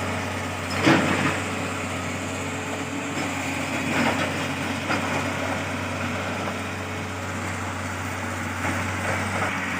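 Excavator's diesel engine running steadily with a constant low hum, with a few faint knocks.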